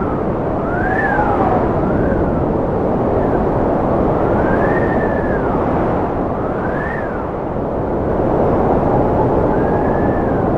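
Strong wind blowing, a loud steady rush with whistling howls that rise and fall in pitch every second or two.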